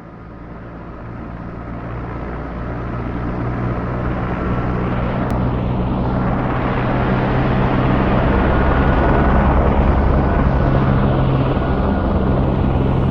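A steady, low mechanical drone with an even hum, swelling in gradually and getting louder over the first several seconds, then holding.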